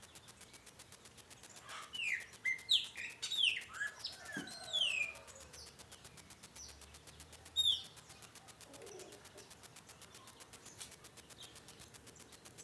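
Wild birds singing: a quick run of clear, falling whistled notes, several overlapping, starting about two seconds in, then one more note near eight seconds. A faint rapid ticking runs steadily underneath.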